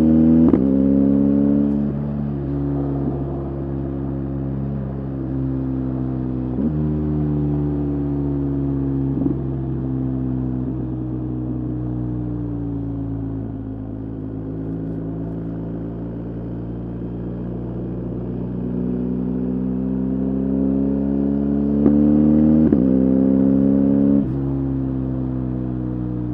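BMW R 1250 GS Adventure's flat-twin boxer engine pulling the bike along, its note dropping and climbing with the throttle and stepping through several gear changes. The pitch sinks slowly through the middle, then climbs steadily before two quick shifts near the end.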